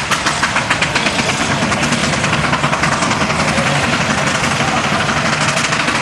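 Fowler steam traction engine no. 2528, built 1875, working under load on a tractor pull: rapid, even exhaust chuffs, about five or six a second, that grow quicker and steadier.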